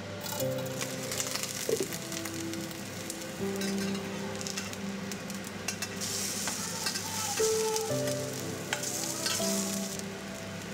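Grated potato and spring onion fritters sizzling and crackling in hot oil in a stainless steel frying pan. The sizzle is louder in the second half as a spatula slides under and turns the fritters.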